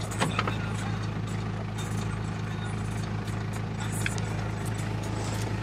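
Toyota Prado's engine idling steadily, heard through the open driver's door, with a few light clicks.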